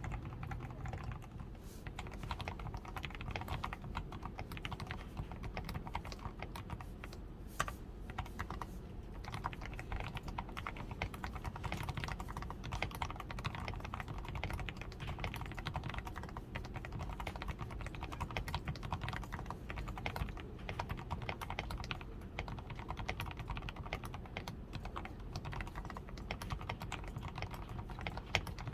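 Continuous fast typing on a DAREU A87 Pro mechanical keyboard that has been fully lubed with Krytox 105, tape-modded, foamed under the switches and fitted with XDA keycaps, giving a rapid, uneven stream of key clicks.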